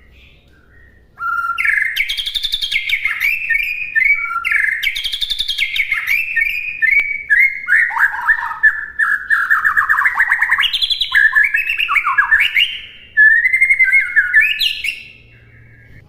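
White-rumped shama (murai batu) singing a long, varied song of whistled phrases and rapid trills. It starts about a second in, breaks briefly near the end, and stops shortly before the end.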